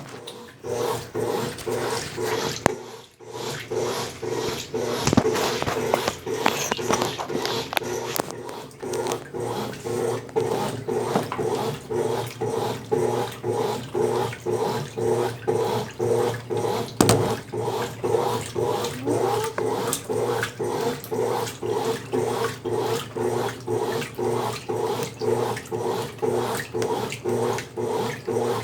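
Consul Facilite 10 kg top-loading washing machine agitating in its wash stage, freshly rebuilt and on test. The motor hums in short, even back-and-forth strokes, about one and a half a second; the rhythm settles after about nine seconds.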